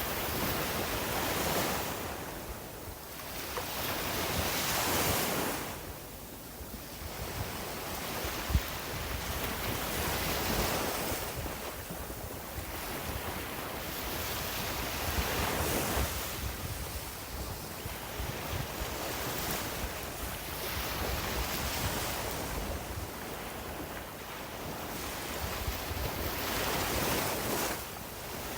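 Sea waves breaking and washing up a beach, the surf swelling and fading every few seconds, with wind buffeting the microphone and a single short thump about eight seconds in.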